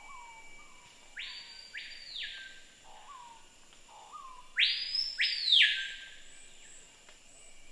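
Forest bird calls: two pairs of loud, harsh, arching calls, the first about a second in and the louder second pair about halfway, with softer short falling whistles below them. A faint steady high tone runs underneath.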